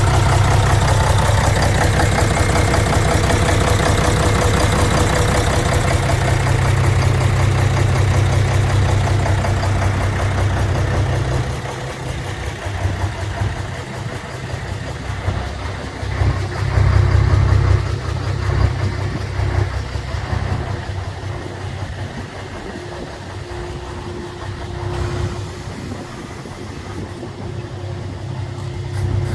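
Mercedes-Benz SK 1831 truck's V8 diesel engine running: loud and steady for about the first eleven seconds, then quieter and less even, with a brief rise in level around the middle.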